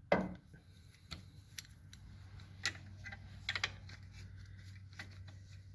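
Faint, irregular metallic clicks and clinks of a socket wrench being fitted and worked on a bolt in the engine bay, over a low steady hum.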